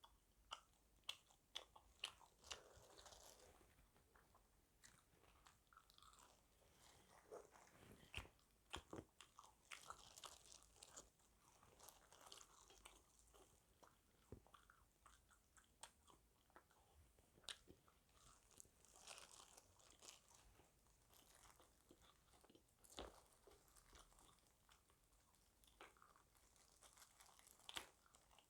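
Quiet eating sounds of a KFC burger and fried chicken: irregular crisp crunches and bites with soft chewing between them.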